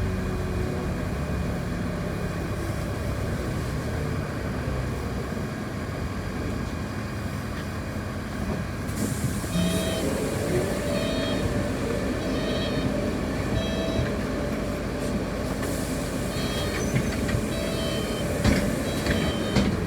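Inside a moving city bus: steady drive and road rumble. About nine seconds in a higher steady whine comes in and holds, with faint repeated high beeps and a couple of clicks near the end.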